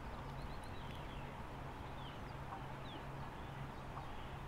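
Faint small-bird chirps, short scattered high notes, over a quiet steady hum of outdoor ambience.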